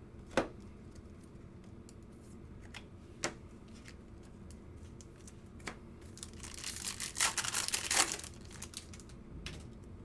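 A foil trading-card pack wrapper being torn open and crinkled for about two seconds, near the end. It follows a few single sharp clicks.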